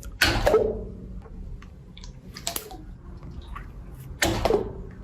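Slime being squeezed and poked, making wet, sticky squelches. There are louder squishes near the start, halfway through and near the end, with small popping clicks in between.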